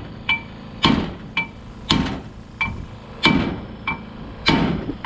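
Hammer striking metal differential parts in a steady rhythm, about eight blows alternating a lighter tap and a heavier hit, each with a short metallic ring.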